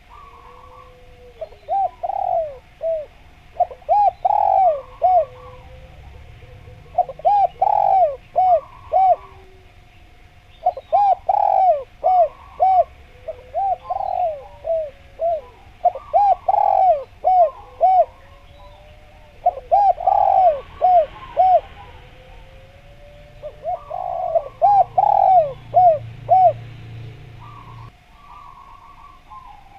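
Spotted dove (derkuku) cooing: phrases of several quick notes repeated about every three seconds, with faint chirps of other small birds above.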